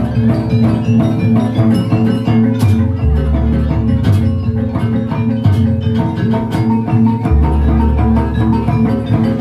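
Live jaranan gamelan music: metal mallet percussion playing fast repeated notes over drums, with a deep low note that swells in and holds for a few seconds, twice.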